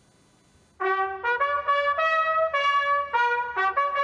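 Brass band playing a slow, solemn melody of held notes, starting about a second in.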